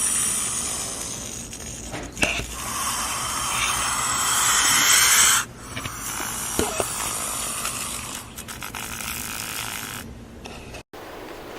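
An animal's rough, breathy calls without a clear pitch. The loudest stretch ends abruptly about five seconds in, then quieter calls follow until a sudden cut near the end.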